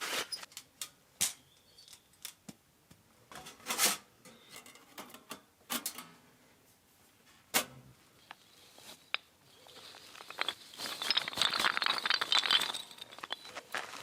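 Scattered sharp clicks and knocks of objects being handled, then about three seconds of dense rustling or crinkling from about ten seconds in.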